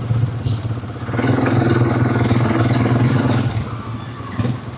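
Quad bike engine running, the throttle opening up about a second in and easing off again after about three seconds.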